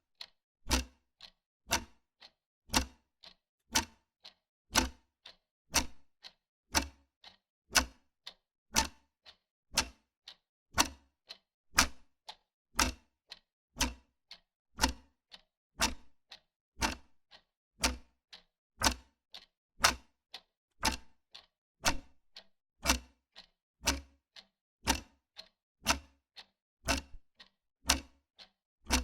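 Wall clock ticking steadily, a regular tick-tock of about two beats a second, alternating a stronger and a weaker stroke.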